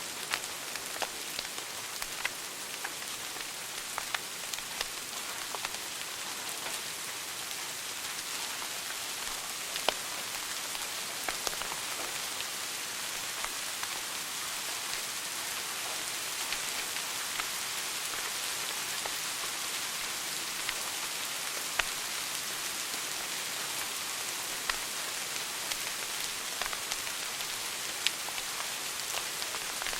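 Wood fire crackling in a fireplace: a steady hiss with scattered sharp pops and snaps, a few of them louder, such as one about ten seconds in.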